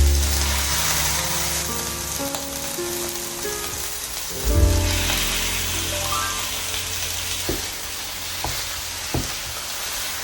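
Food sizzling in a frying pan, a steady hiss, with a few light knocks in the last few seconds, over slow solo piano music.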